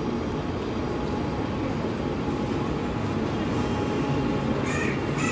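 Suburban electric multiple-unit local train rolling slowly into the platform as it comes to a stop: a steady low rumble of wheels on rails, with a few short high squeaks near the end.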